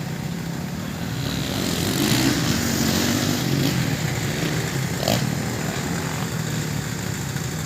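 Motocross motorcycle engines running, getting louder from about a second and a half in, with a brief sharp sound about five seconds in.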